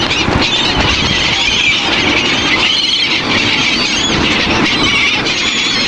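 A large flock of gulls calling over one another, many short high squealing cries overlapping without pause. Beneath them is a loud, steady rushing noise.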